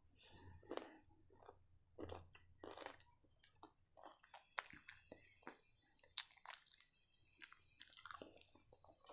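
Faint chewing of fried chicken kebab with the mouth closed: a string of short, irregular clicks.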